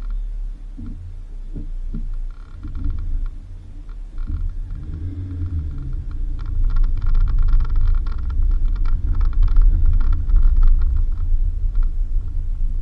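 Suzuki Jimny driving on a dirt road: a loud, low rumble of engine and road, with dense rattling and clicking from about six to eleven seconds in.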